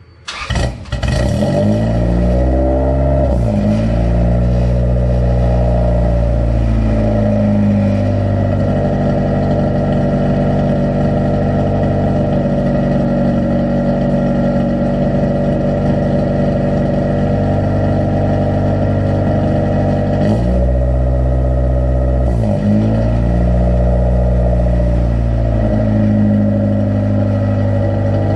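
1992 Honda Civic four-cylinder engine through a cheap eBay aftermarket exhaust, without the Magnaflow muffler. It is revved up and back down in the first few seconds, idles steadily, then is revved twice more about two-thirds of the way through.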